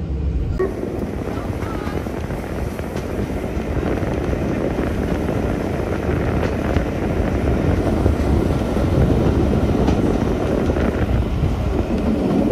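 Steady rumble and rush of a moving steam-hauled passenger train, heard from a carriage window.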